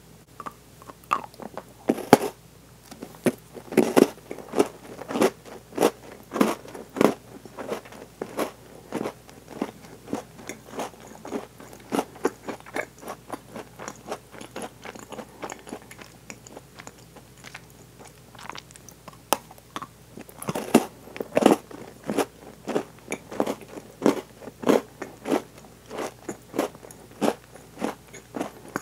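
Biting and crunchy chewing of Milka Oreo chocolate, the chocolate and cookie bits crunching a few times a second. There is a sharp bite about two seconds in and another past the middle, after a short lull.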